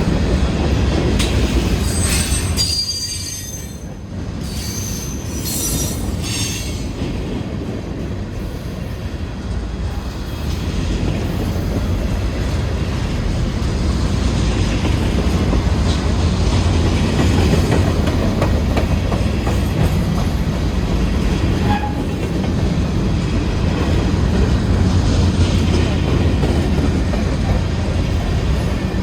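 Norfolk Southern freight train cars rolling past with a steady low rumble of steel wheels on rail. Several high-pitched wheel squeals come a few seconds in.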